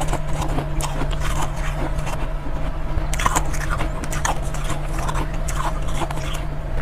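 Soft, powdery ice being bitten and chewed close to the microphone: a quick, uneven run of crisp crunches, several a second.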